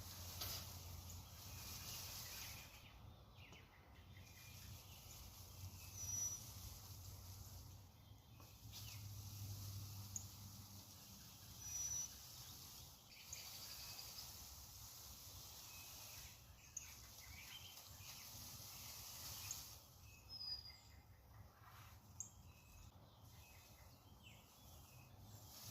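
Faint outdoor background hiss with a few short, distant bird chirps scattered through it.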